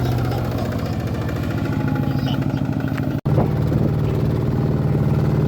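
Kubota tractor's diesel engine running steadily with a fast, even chug. The sound cuts out for an instant about three seconds in, then carries on slightly louder.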